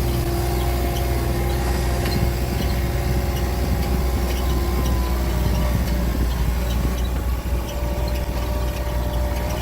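Motor vehicle engine running steadily at low, even speed, with a constant low hum.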